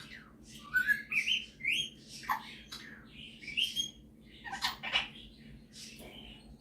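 Superb parrot (Barraband parakeet) chattering in a string of short squawky chirps and quick rising whistles, about seven calls.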